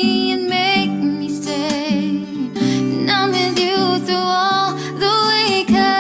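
Background music: a slow song with a sung voice holding long notes over acoustic guitar.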